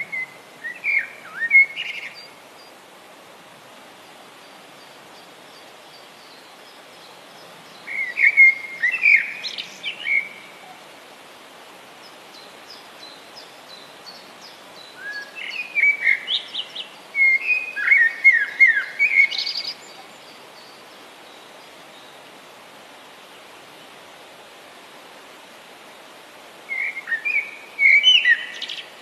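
A songbird singing in four bouts of quick chirps and short down-sliding whistled notes, with long pauses between bouts, over a steady background hiss.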